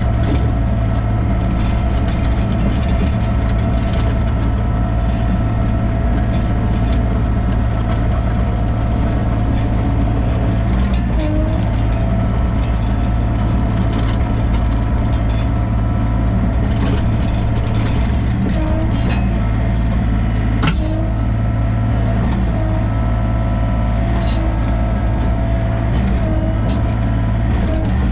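Sany mini excavator's diesel engine running steadily, with a steady hydraulic whine that dips briefly in pitch now and then. Scattered clanks and clicks, with one sharper knock about two-thirds of the way through.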